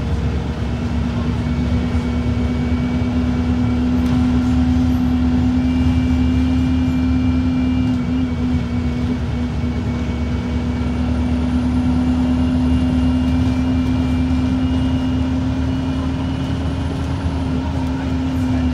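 Cummins ISB4.5 four-cylinder diesel engine of an Alexander Dennis Enviro 200 MMC bus running at a steady speed, with a steady drone that holds nearly one pitch and a low rumble beneath.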